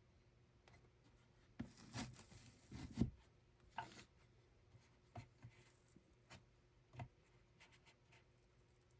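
Quiet scratchy rubbing and scattered light knocks of handwork at close range, busiest around two to three seconds in, with the loudest knock about three seconds in.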